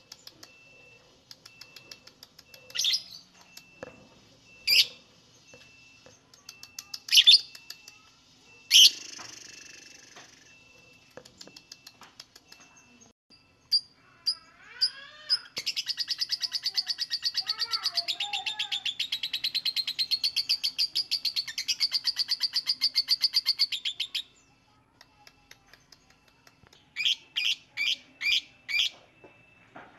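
Lovebird singing: a few sharp, shrill calls, then a long rapid chattering trill of quickly repeated notes lasting about eight seconds (the 'ngekek'), then five quick calls near the end.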